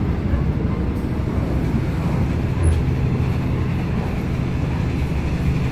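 Passenger train running, heard from inside a carriage: a steady low rumble with a constant hum underneath.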